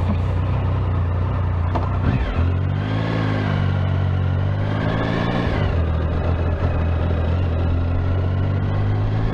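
Triumph Tiger Sport 1050's three-cylinder engine running steadily at low revs, then rising in revs about two seconds in as the bike pulls away, rising and falling once more about five seconds in, and settling back to a steady low note.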